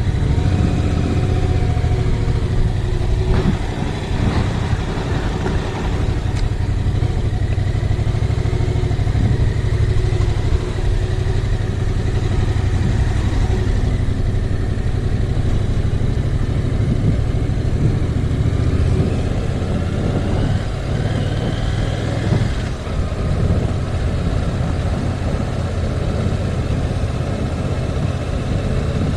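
Heavy wind buffeting on a GoPro microphone, a loud steady rumble, over the 689 cc parallel-twin engine of a 2019 Yamaha MT-07 running as the motorcycle is ridden, its pitch shifting up and down with the throttle.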